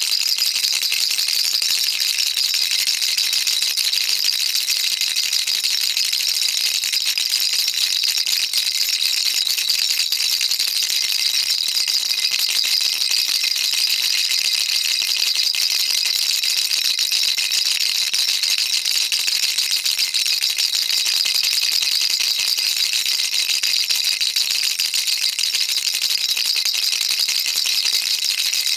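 Baby rattle shaken continuously: a dense, steady stream of small, bright clicks from the beads inside, with no pauses.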